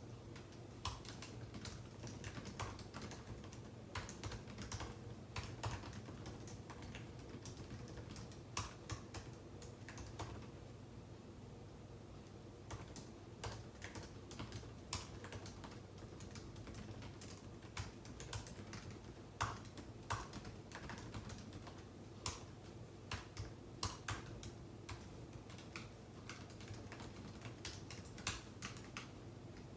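Typing on a computer keyboard at an uneven pace, irregular key clicks with short pauses, over a steady low hum.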